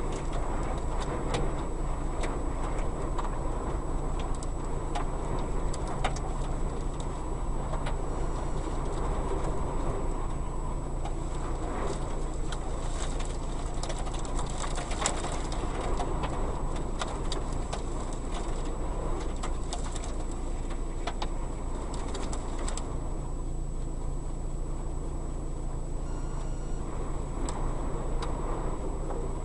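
Strong wind rumbling over the microphone in a street, with steady noise and scattered small clicks throughout.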